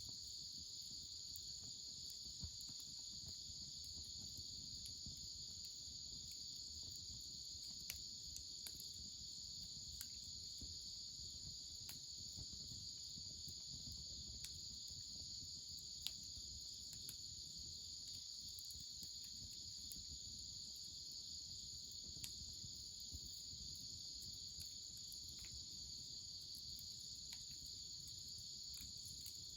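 Crickets trilling steadily and high, with a few isolated sharp pops from a wood fire crackling, the loudest about sixteen seconds in.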